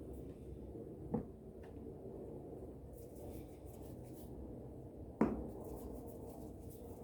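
Two sharp knocks about four seconds apart from handling things in a kitchen, the second one louder, over a steady low hum.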